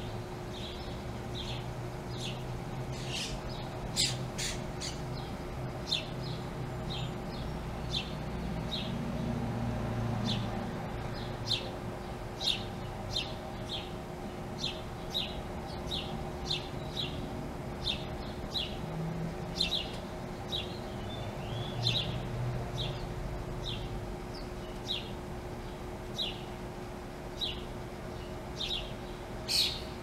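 Small birds chirping steadily, short sharp single chirps about one or two a second, over the low rumble of passing traffic that swells twice.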